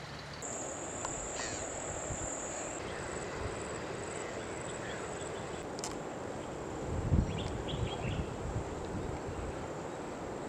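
An insect's high-pitched steady buzz over outdoor ambience. It is loudest for the first two seconds or so, then carries on fainter in short pulses. A few low bumps come about seven seconds in.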